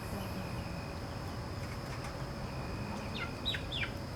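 Three quick falling bird chirps about three seconds in, over a steady outdoor background hum with a faint, even high-pitched tone.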